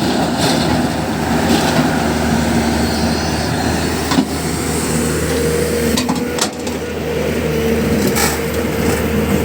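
Heavy diesel engine of a backhoe loader running steadily at work, with a few sharp metallic knocks.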